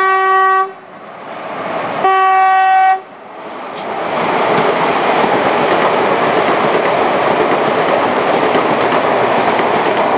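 Hyundai Rotem HRCS2 electric train sounding its horn in two steady blasts, the first ending about half a second in and the second lasting about a second from two seconds in. The train then passes close, its wheels running on the rails in a loud, steady rush with faint clicks over the rail joints.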